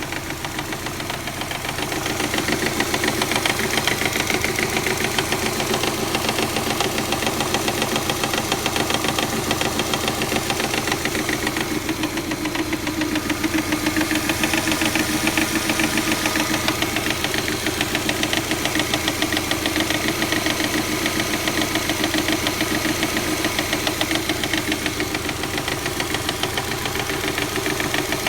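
Subaru EJ257 turbocharged flat-four idling cold, with a fast, even clacking over the engine note: the timing belt slapping because of a defective hydraulic timing belt tensioner. The engine gets louder about two seconds in and then runs steady.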